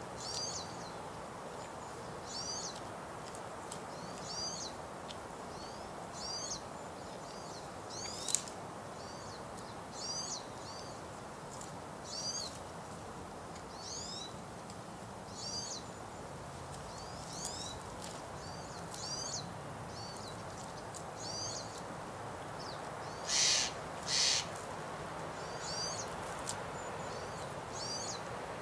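A small bird repeats a short, high, curved call about every two seconds over a steady background hiss. About four-fifths of the way through, two louder, harsher rasps come less than a second apart.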